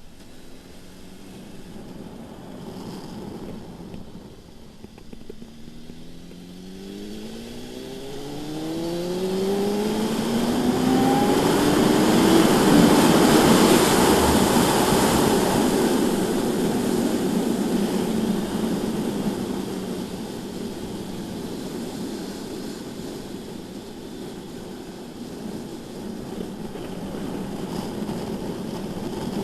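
BMW S1000RR inline-four sport bike engine accelerating hard, its note climbing steadily in pitch for several seconds. It gives way to a loud rush of wind noise at speed, which then eases off as the bike slows.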